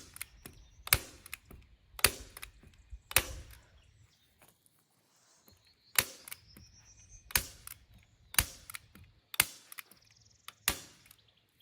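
Manual heavy-duty staple gun firing staples through plastic sheeting into a wooden frame: about eight sharp snaps, roughly one a second, with a pause in the middle.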